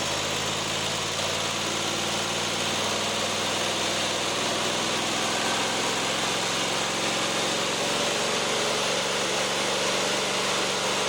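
Riding lawn mower engine running steadily with no load, its pitch shifting slightly in the first couple of seconds. It has been stumbling as if misfiring, which the owner takes for a fuel problem.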